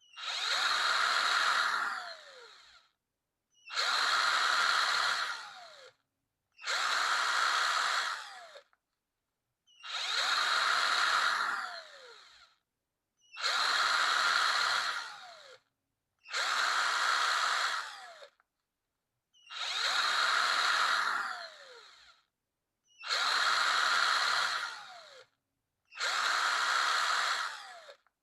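Electric power drill run in short bursts, about nine times, each lasting roughly two seconds. Each burst ends with a falling whine as the drill winds down, followed by a short silence.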